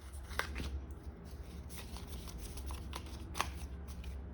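Pokémon trading cards slid and flipped by hand, a few soft card flicks, the sharpest about three and a half seconds in.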